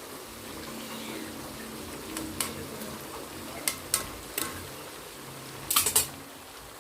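Food frying in hot oil, a steady sizzle, with a few sharp clicks along the way and a pair of louder ones near the end.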